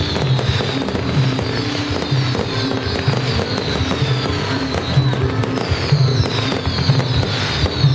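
Fireworks display: a rapid run of pops, crackles and bangs from rockets, fountains and bursting shells, with high whistles that fall slowly in pitch. Music with a repeating low beat plays underneath.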